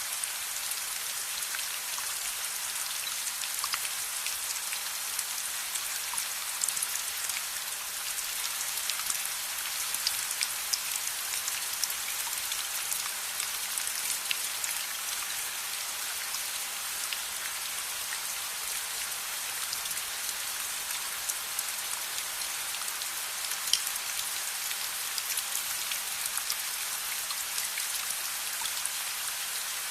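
Steady rain falling, an even hiss with many small sharp drop taps and ticks scattered throughout.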